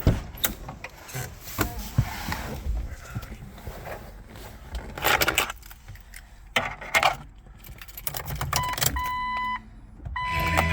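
Keys jangling and clicking as the ignition key is handled, then a repeating electronic chime near the end. Just before the end, the 1998 Jeep Cherokee XJ's starter begins cranking the engine for a cold start after sitting for four or five days.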